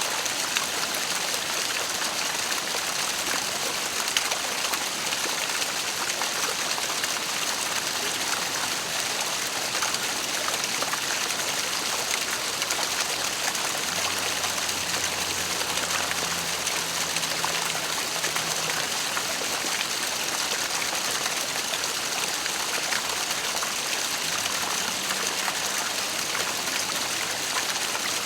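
Waterfall: a steady, unbroken rush of falling water, its sound weighted toward the high end.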